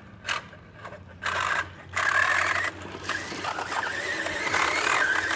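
A harsh scrape: a short one about a second in, then a longer, rough, continuous one from about two seconds in to the end.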